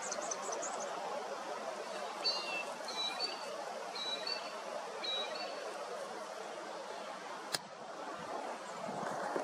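Steady outdoor background hiss with a bird giving a run of short high chirps in the first half, and one sharp click about seven and a half seconds in.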